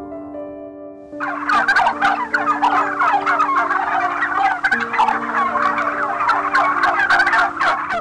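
A flock of birds calling all at once in a dense, loud clamour that starts about a second in and cuts off abruptly at the end, over soft background music of slow held notes.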